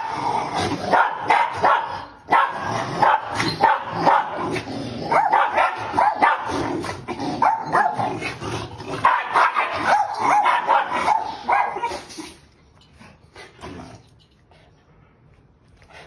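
Dog barking and yipping in rapid, overlapping calls, stopping about twelve seconds in.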